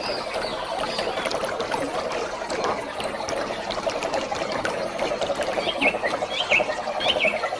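Waterfall water rushing steadily, with a fast trilling drone underneath and a quick run of bird chirps about two-thirds of the way in.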